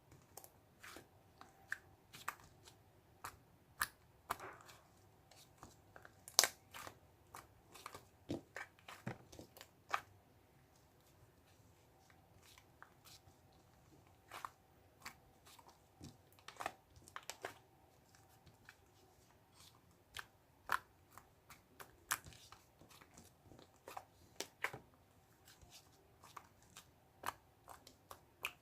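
Irregular faint clicks, crinkles and crunches of small objects being handled, close to the microphone in a small room.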